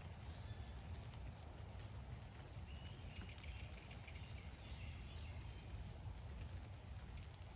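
Faint backyard ambience: a steady low rumble with small birds chirping faintly and a few light ticks.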